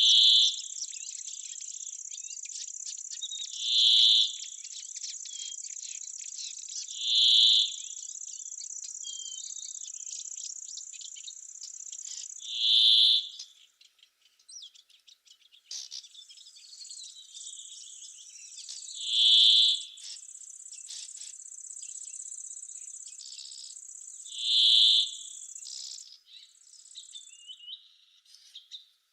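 Insects trilling steadily at a high pitch, the trill breaking off briefly twice. Over it, a louder, lower call about a second long comes six times, every three to six seconds.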